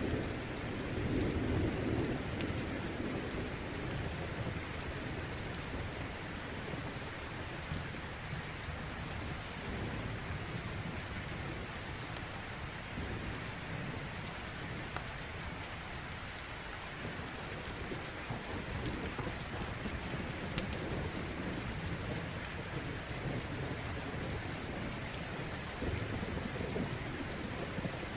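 Steady rain with low rumbles of distant thunder swelling and fading, louder about a second in and again near the end. A wood fire crackles lightly throughout with fine sharp ticks.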